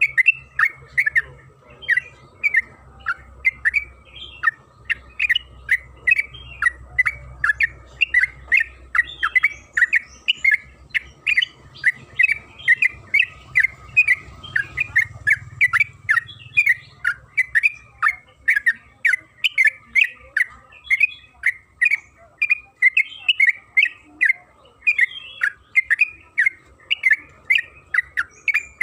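Yellow-vented bulbul (trucukan) calling in a fast, unbroken run of short chirping notes, about two to three a second.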